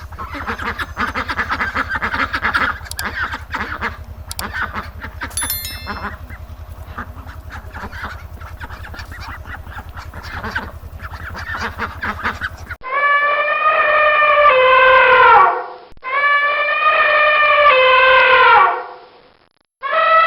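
Animal calls in two clips: first many overlapping squawking and honking calls over a steady low hum, then, after a cut, three long drawn-out calls, each dropping in pitch at the end.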